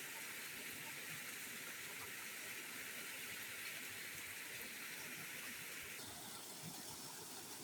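Faint, steady rush of a river flowing, running again after heavy rain.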